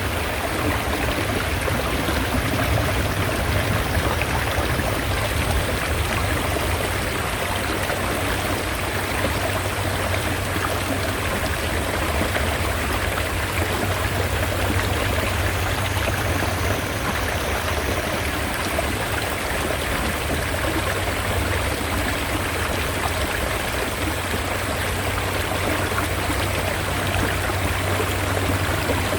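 A mountain stream running steadily: a continuous rush of flowing water.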